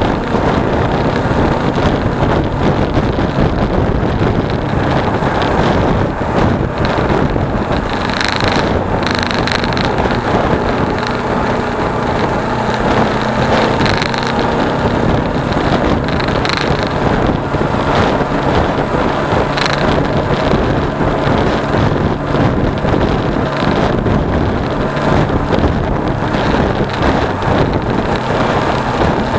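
Wind rushing over an action camera's microphone on a moving motorcycle, with the Suzuki V-Strom 250's parallel-twin engine running steadily underneath. A few brief clicks come through around the middle.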